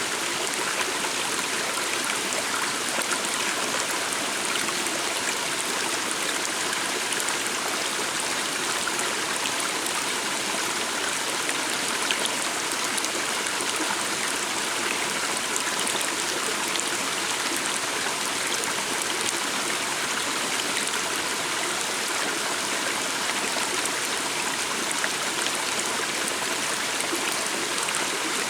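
A small stream flowing steadily, an even rush of water with no break.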